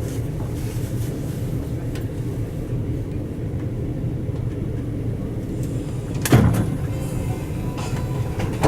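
Steady low rumble inside a KTX high-speed train carriage, with a single short thump about six seconds in.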